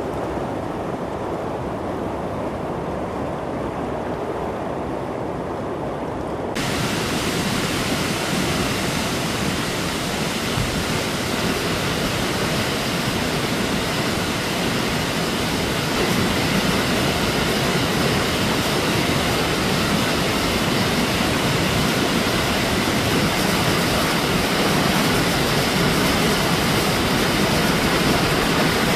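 Floodwater from a flash flood rushing in a steady, dense noise of water. About six seconds in it switches abruptly from a duller rush to a brighter, fuller one.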